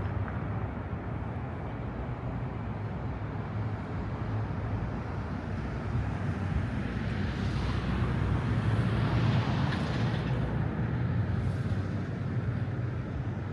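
City street traffic: a steady low rumble of engines, with a vehicle passing and growing louder from about seven to ten seconds in.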